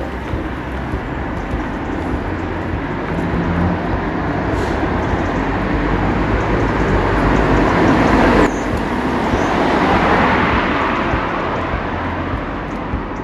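Road traffic passing close by: tyre and engine noise swells to a peak about eight seconds in, then fades away.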